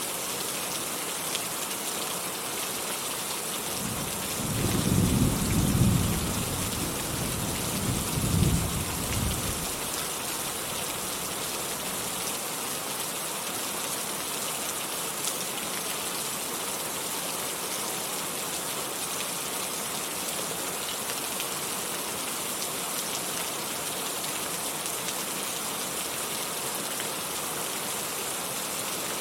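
Steady rain falling, with a roll of thunder rumbling about four seconds in and peaking twice before fading out around ten seconds in.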